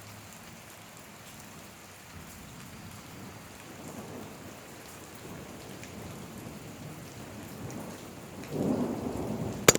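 Steady rain falling during a thunderstorm. About eight and a half seconds in, a loud rumble of thunder swells up, ending in a sharp crack near the end.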